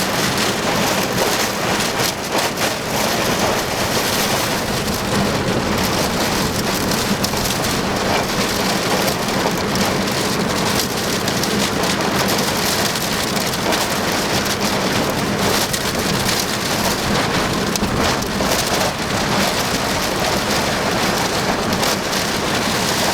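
Heavy rain hitting the storm-chase vehicle steadily, blown in by the storm's rear-flank downdraft, with a low steady hum underneath.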